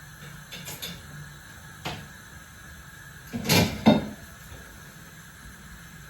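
A few short knocks and clunks of kitchen things being handled over quiet room tone, the two loudest close together about three and a half seconds in.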